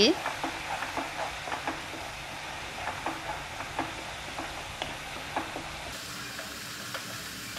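Tomato purée and ground spices frying in hot oil in a nonstick pan, sizzling steadily while a wooden spatula stirs through it, scraping and tapping on the pan now and then: the masala base being cooked down.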